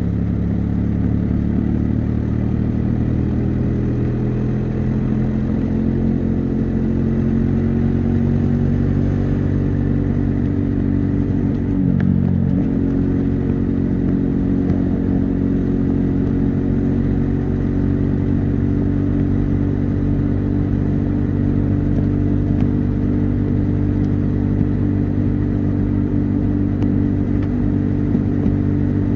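Bajaj Dominar 400's single-cylinder engine and exhaust under way on a highway. The engine note climbs slowly as the bike gathers speed, dips briefly about twelve seconds in, then holds steady while cruising, with wind noise.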